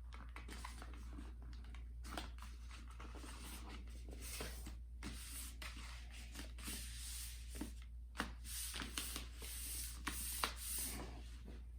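A sheet of poster-board cardstock being folded and creased by hand: paper rustling and fingers rubbing along the fold to press it flat, with sharper rubbing strokes in the last few seconds.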